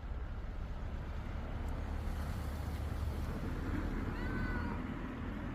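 A street cat gives one short, high meow about four seconds in, a small voice for its size, over a steady low rumble.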